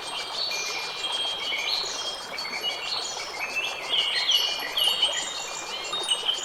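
Wind chimes tinkling, with many overlapping high ringing tones struck at irregular moments and fading out, over a steady rushing noise.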